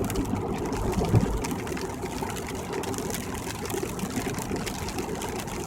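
Steady road noise inside a car driving on a rain-wet freeway: tyre hiss on wet pavement under the engine and cabin drone, with one low thump about a second in.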